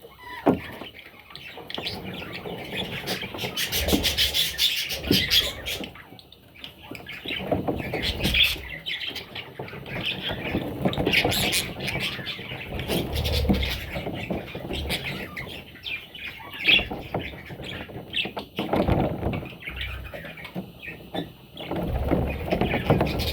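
Budgerigars, baby budgies among them, chirping and squawking continuously in a dense run of short calls, with some low thumps and rustling.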